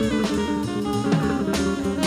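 A jazz band playing, with pitched instrument lines over drums keeping a beat.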